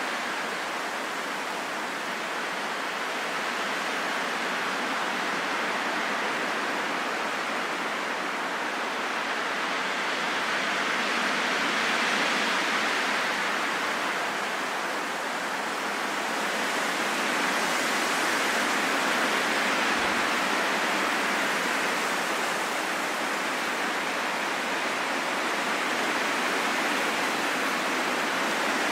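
Wind blowing steadily, a smooth rushing without any whistle, swelling slowly to a gust about a third of the way in and again past the middle, then easing.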